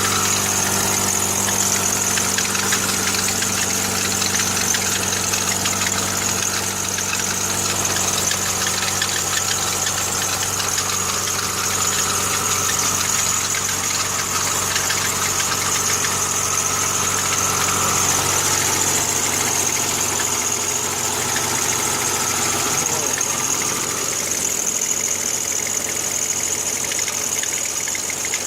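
Freshly rebuilt Honda B16A2 1.6-litre DOHC VTEC four-cylinder with forged pistons and rods, idling steadily on its first start-up. Its alternator belt, not yet tightened, is flapping loose.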